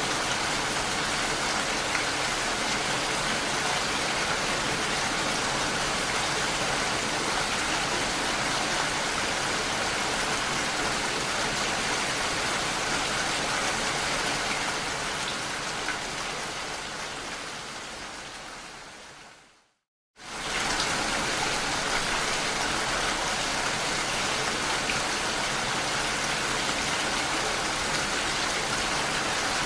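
Steady heavy rain. About two-thirds through it fades away to a moment of silence, then cuts straight back in at full strength, as at the join of a looped recording.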